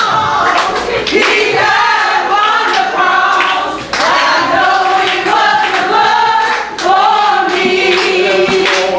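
Group of voices singing a praise song together, with handclaps keeping a steady beat.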